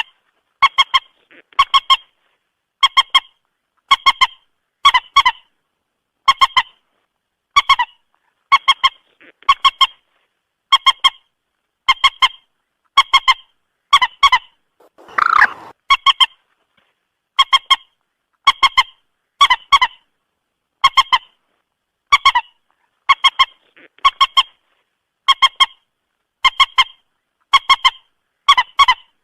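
Common moorhen calling: short, sharp clucks in tight pairs or triplets, repeated evenly about once a second, with one longer, rougher call about halfway through. It is a recorded call played as a lure for trapping moorhens.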